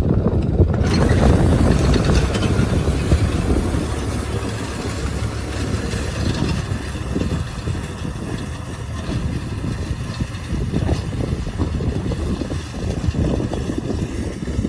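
Yanmar F535 compact tractor's diesel engine running steadily while plowing.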